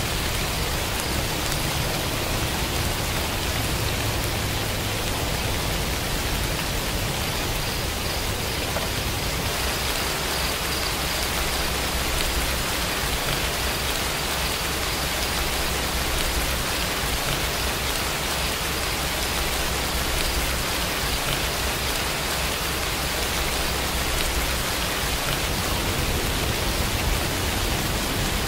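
Steady rain falling, a dense, even patter of raindrops with no breaks.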